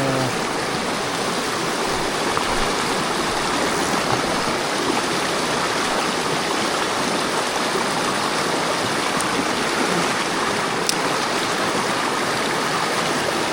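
Mountain stream water rushing steadily, with one brief click about eleven seconds in.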